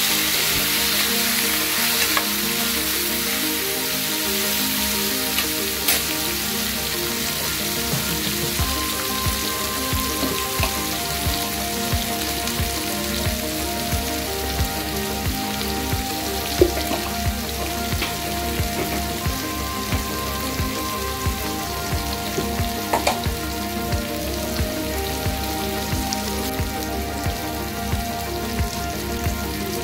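Boiled tapioca pieces sizzling steadily in hot oil in a non-stick frying pan as they are stir-fried with a spoon. Background music with a steady beat plays under it.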